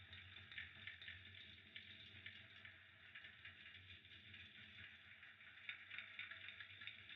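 Fireplace fire crackling faintly and steadily, with small irregular pops over a soft hiss and a low hum.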